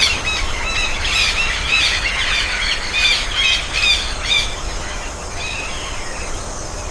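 Many birds calling at once in short, quick chirps over a steady hiss. The calls thin out after about four and a half seconds.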